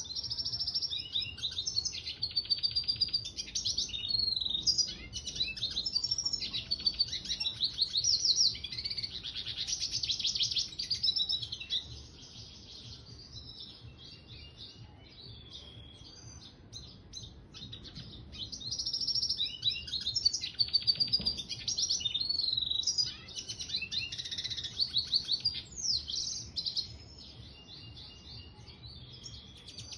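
Mule siskin, a red siskin × canary hybrid, singing long, fast twittering and trilling song phrases. It breaks off for several seconds partway through, then sings again.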